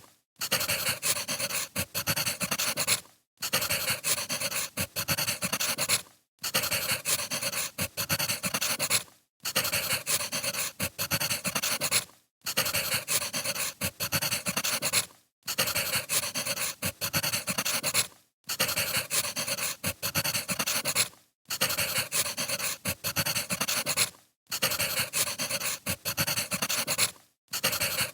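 Crackling of burning firewood, dense with small pops and snaps, played as a short loop that drops out briefly about every three seconds.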